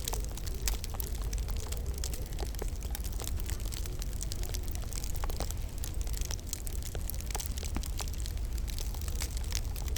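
Wood fire crackling and popping in a fireplace, many irregular sharp cracks over a steady low rumble and hiss of the flames.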